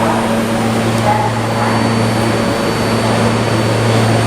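Vintage subway train giving a steady low hum under an even rushing noise, with no change in pitch.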